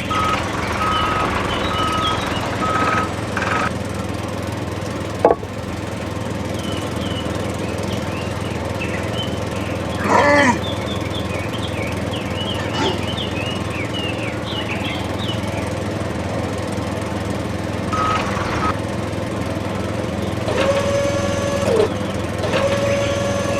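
A small motor running steadily, with birds chirping and a single sharp click about five seconds in.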